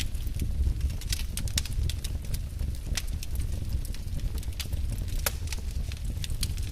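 Wood fire burning in a fireplace: sharp crackles and pops at irregular intervals over a steady low rumble of the flames.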